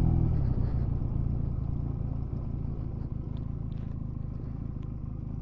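Honda Rebel 250 motorcycle engine running at low speed, its sound fading over the first couple of seconds as the bike slows, then settling to a steady low note.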